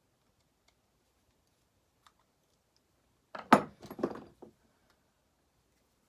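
A brief clatter of small metal tools or parts handled on a workbench: a sharp knock about three and a half seconds in, then a few lighter clinks.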